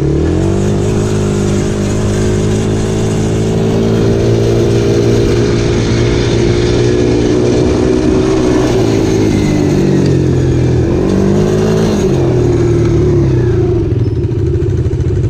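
Dirt bike engine revving up as it pulls away and running steadily, easing off and picking up again briefly about ten seconds in, then settling to a lower, steady speed near the end.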